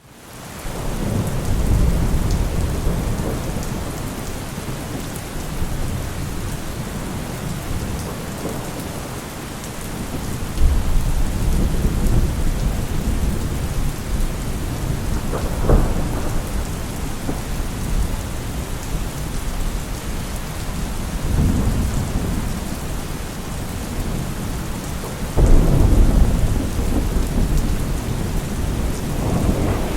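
Heavy rain falling steadily through a thunderstorm, with rolling thunder rumbling again and again. The sound swells in at the start, and a sharper thunderclap comes about halfway through.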